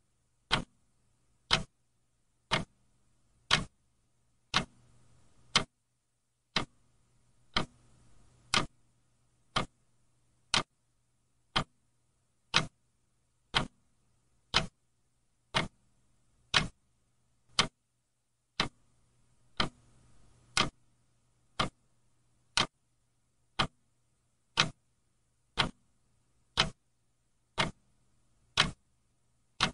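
Clock ticking: one sharp tick about every second, steady and even, over a faint low hum.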